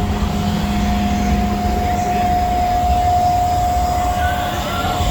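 Steady machine drone: a constant high whine over a heavy low rumble, with a lower hum that drops out about two seconds in.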